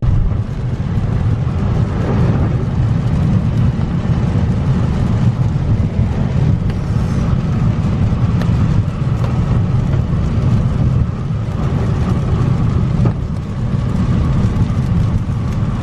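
A car driving on a rain-soaked road, heard from inside the cabin: a steady low rumble of engine and tyres with a hiss of water and rain over it.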